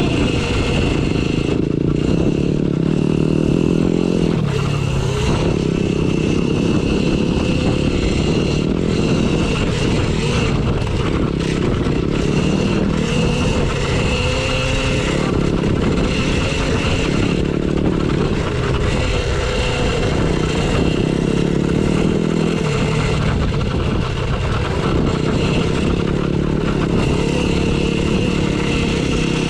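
Dirt bike ridden along a trail, its motor running steadily for the whole stretch with wind on the microphone.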